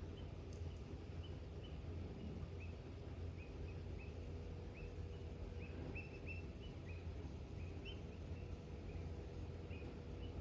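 A bird chirping over and over, short high chirps about two or three a second, over a steady low rumble of outdoor background noise.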